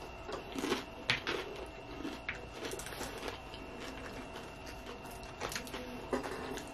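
Chewing a mouthful of cheesy beef nachos, with scattered soft crunches and wet mouth clicks. In the second half a plastic fork picks and scrapes at the nachos on a paper plate.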